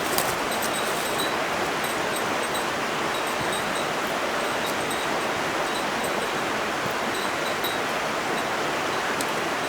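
Steady, even rushing of running water, as from a nearby forest stream, with a few faint ticks.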